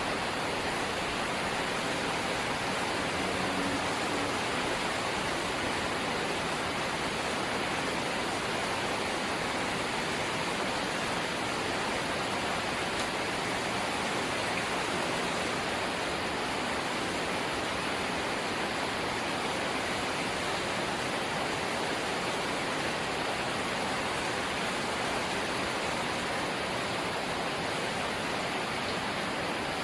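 Light rain falling steadily: an even, unbroken hiss.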